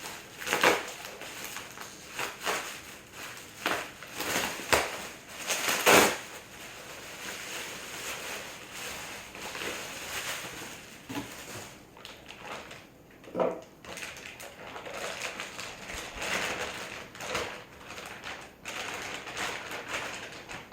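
Packaging being handled and torn open to get at a turbocharger compressor housing: irregular rustling and crinkling with a few sharper knocks, the loudest strokes about a second in and around five to six seconds in.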